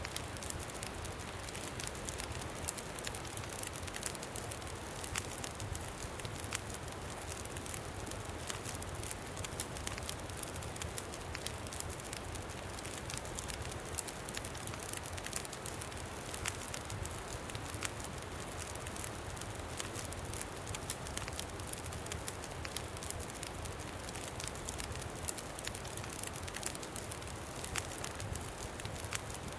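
Campfire crackling: many small, sharp pops scattered over a steady hiss, with a low, steady wind rumble underneath.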